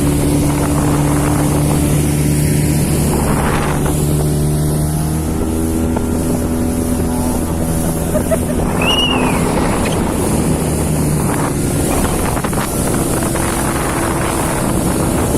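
Speedboat's 40 hp outboard motor running steadily underway, with rushing water and wind on the microphone. The engine note shifts about five seconds in.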